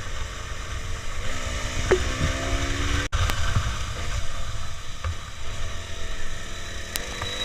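Roadside traffic noise: a steady low rumble under an even hiss, with a faint pitched sound held for a couple of seconds about a second in, and a brief break in the sound about three seconds in.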